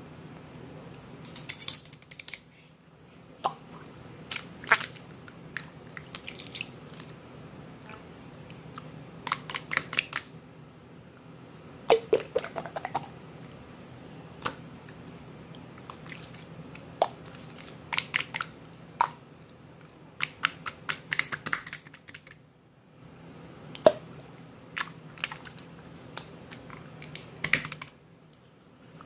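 Slime being squeezed and pressed by hand, making clusters of sharp clicks and pops every few seconds, over a steady low background hum.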